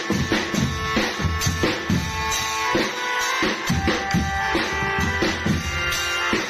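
Band music led by drums: dense, steady drum strikes with a held melody line sounding over them.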